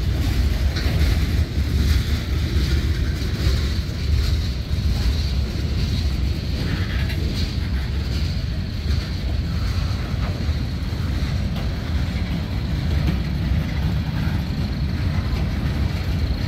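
Freight train cars rolling past: a steady low rumble of steel wheels on rail, with a few faint clicks from the cars.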